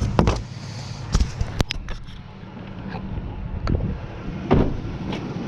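Scrap being handled: a handful of sharp knocks and clanks, loudest right at the start and about four and a half seconds in, over a steady low rumble.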